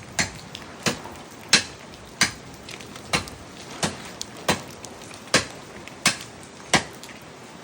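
A blade chopping into tree branches, about ten sharp strikes at a steady pace of roughly one every 0.7 seconds.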